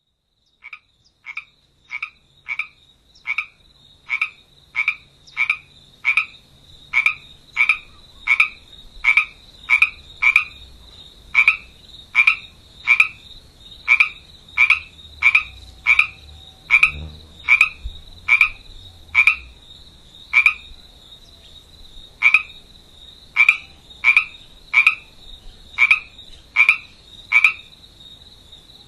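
A frog croaking over and over, a short call roughly every three-quarters of a second, with a brief pause about 21 seconds in. A faint steady high whine runs underneath.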